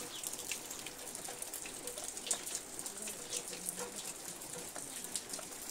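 Snowmelt water dripping and trickling from thawing snow, many small irregular drips.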